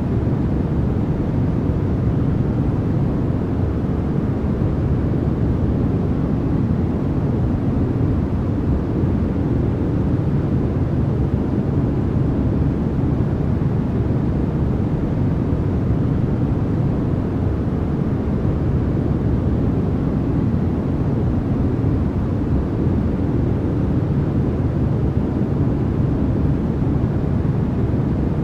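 Steady, unchanging synthetic noise for sleep, sold as white noise but weighted to the low end, so it sounds like a deep rushing rumble rather than a bright hiss.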